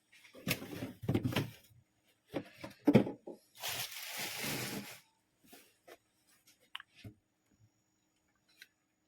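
Handling noises: a few seconds of rustling and knocking of objects being moved, a short hiss lasting about a second and a half, then scattered light clicks.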